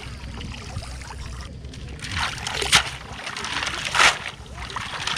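Water splashing and sloshing in a few short bursts, two of them stronger, about a second and a quarter apart, over a steady low rumble.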